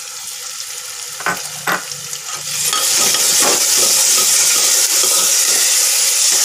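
Chopped green chillies going into a metal pot of onion-tomato masala frying in mustard oil: two sharp knocks on the pot about a second in, then from about two and a half seconds a loud, steady sizzle as the masala is stirred with a steel ladle.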